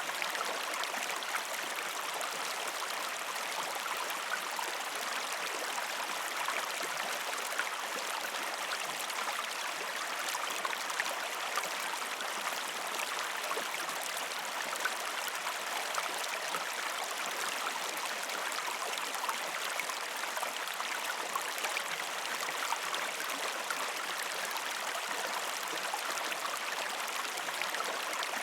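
Shallow river stream flowing over rocks: a steady rushing of water with many small splashes and gurgles, without pause.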